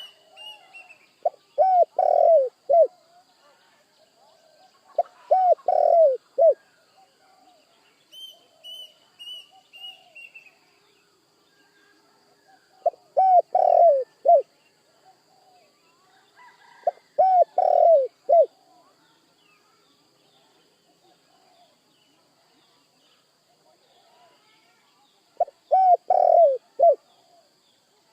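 Spotted dove cooing: five phrases of a few low coos each, several seconds apart. A smaller bird gives a short run of falling high chirps at the start and again about nine seconds in, over a faint steady high tone.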